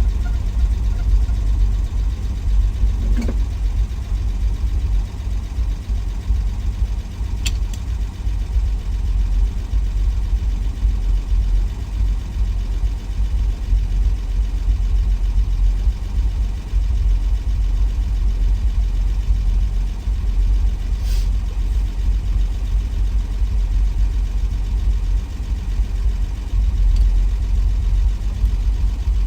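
A 1963 Willys Wagon's 230 Tornado overhead-cam straight-six running steadily on the road, a constant low rumble of engine and drivetrain. A few faint clicks stand out now and then.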